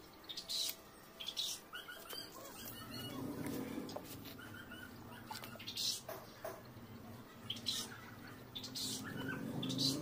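Birds in a cage giving short, sharp chirps and squawks, scattered irregularly over a low steady background.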